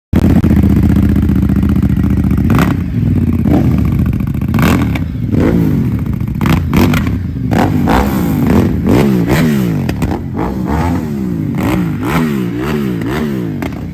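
Ducati Diavel's L-twin engine running steady for a couple of seconds, then revved in repeated throttle blips, which come quicker toward the end at about one a second. There are sharp pops between some of the revs.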